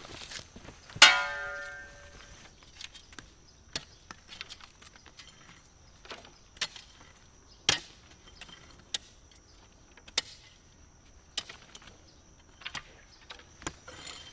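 Metal hand tools at work: one loud ringing metallic clang about a second in, then scattered sharp knocks and strikes every second or so.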